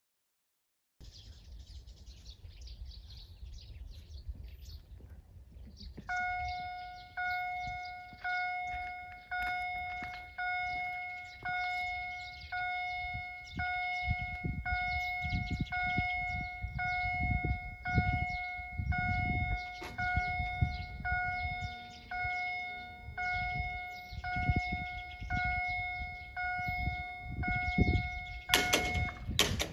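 Electronic level-crossing bells (GZT30 warning gongs) dinging about once a second, each ding dying away, over a low rumble. This is the crossing's acoustic warning that a train is approaching. The dinging stops near the end and a loud noise follows.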